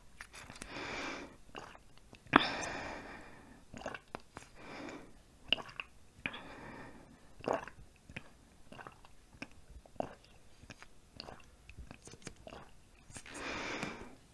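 Close-miked chewing of chewy rice cakes and ramen noodles: wet mouth clicks and smacks, one sharp loud smack about two seconds in, with several breathy sweeps between bites.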